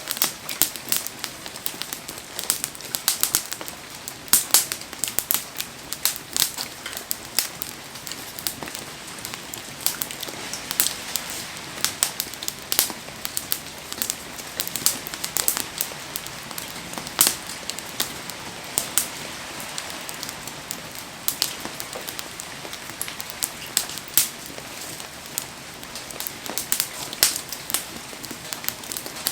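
A wood campfire crackling with frequent, irregular sharp pops, under heavy rain that makes a steady hiss.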